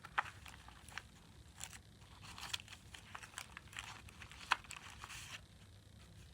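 Paper pages and tags of a handmade junk journal being handled and turned: faint rustling and crinkling with scattered light clicks and taps, the sharpest about four and a half seconds in.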